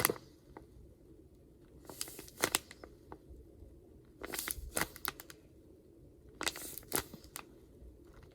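Taped paper squishy crinkling as it is handled, in four short bursts about two seconds apart.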